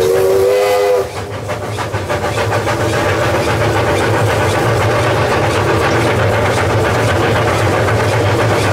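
Two-foot gauge Hudswell Clarke narrow-gauge locomotive sounding a toot of about a second, then running steadily with a low drone and an even pulsing beat.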